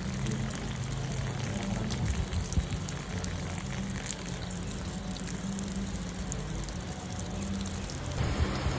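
Light rain falling, with many small drop ticks over a steady low hum; the sound changes abruptly near the end.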